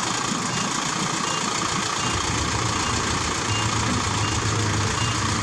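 Heavy diesel engines of construction machinery running steadily, the low rumble growing stronger about two seconds in.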